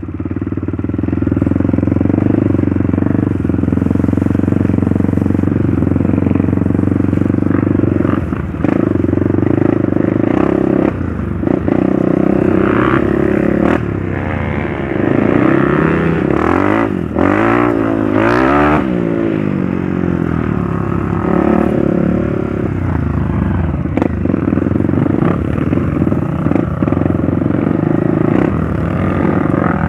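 Trail motorcycle engine running under way, its pitch rising and falling several times in the middle as the throttle is worked. Scattered knocks and rattles come from the bike over rough ground.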